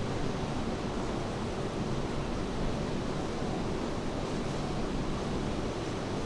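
Steady, even wash of rain and ocean surf.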